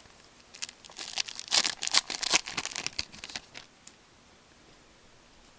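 Foil trading-card pack wrapper crinkling and tearing in a dense crackling run of about three seconds, then stopping.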